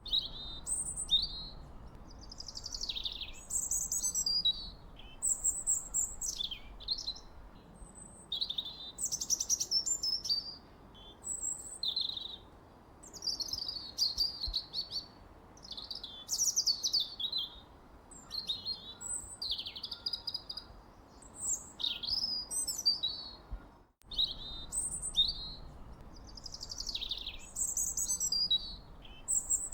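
Songbirds singing, a continuous stream of quick, high chirps and warbled phrases overlapping one another. The sound cuts out for an instant about four-fifths of the way through.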